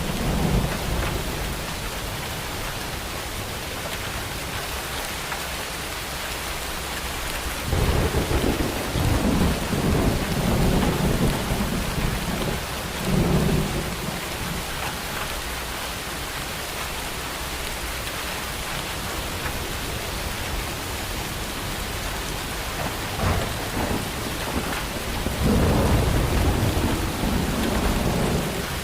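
Steady rain falling through a thunderstorm, with thunder rumbling low: a long roll starting about a quarter of the way in and lasting several seconds, a short rumble later, and another roll near the end.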